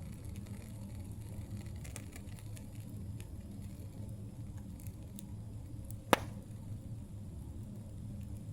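Campfire crackling: scattered small snaps of burning wood over a low steady rumble, with one loud sharp pop about six seconds in.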